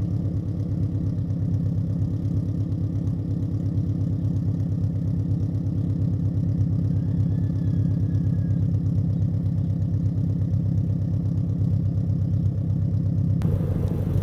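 2022 Subaru BRZ's 2.4-litre flat-four idling steadily with an even, fast pulse, less than a minute after a cold start. It breathes through Tomei unequal-length headers, a catless front pipe and a Greddy RS exhaust.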